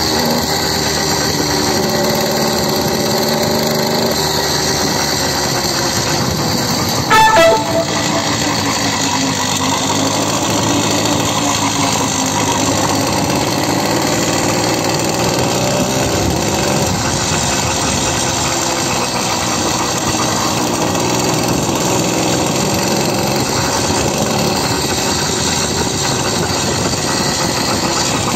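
Small motorcycle engine running steadily while riding, with one short horn beep about seven seconds in.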